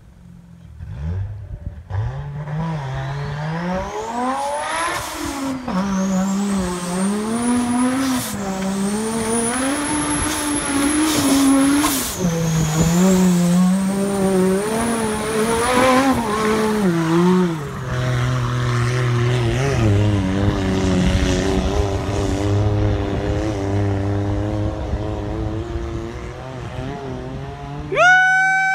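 Nissan Patrol's RB25DET 2.5-litre turbocharged straight-six revving hard again and again, the pitch rising and falling, with a high whine riding over it; a bit past halfway it settles to lower, steadier revs. Near the end a loud high-pitched call cuts in and falls in pitch.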